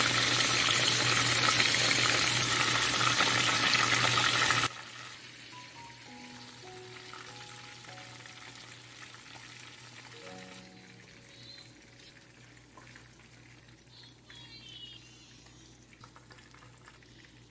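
Chicken fillets frying in hot oil in a pan: a loud, steady sizzle that drops suddenly to a much quieter sizzle about five seconds in, with soft piano-like music over the quieter part.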